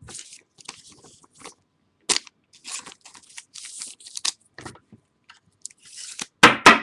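Trading cards and their plastic sleeves or packaging being handled: irregular crinkling rustles and light clicks, with a louder crinkle near the end.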